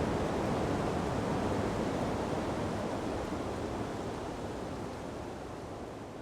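Strong wind rushing and buffeting over the microphone, fading out slowly.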